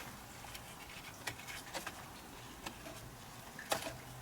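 A few faint, sharp clicks and taps, spaced irregularly, of small plastic parts being handled, over a low steady hum.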